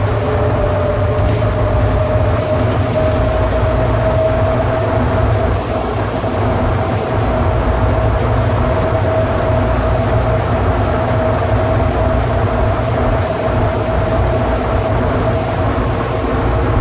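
Rubber-tyred automated people-mover train running through its tunnel, heard from inside the car. A steady low rumble carries a motor whine that rises slightly over the first few seconds and then holds steady.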